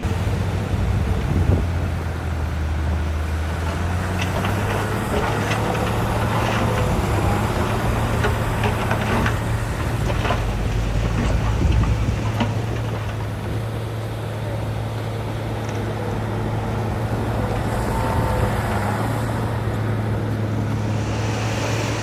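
Heavy diesel earthmoving machinery running steadily with a constant low drone, with a flurry of sharp clanks and rattles a few seconds in, typical of stone being pushed or dumped.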